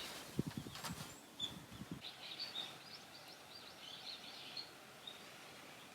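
Faint outdoor ambience with small birds chirping in short, high, repeated calls. A few soft low thumps come in the first two seconds.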